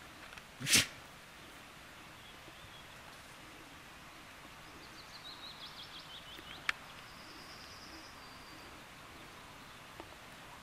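A songbird singing: a run of high chirping notes falling in pitch, then a short high buzzy trill. About a second in there is one loud, sharp knock, and a small click comes in the middle of the song.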